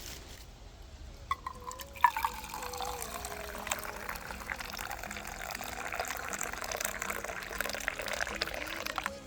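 Hot tea poured from a small kettle into a cup: a couple of light clicks, then a steady splashing pour from about two seconds in that stops near the end. Faint background music underneath.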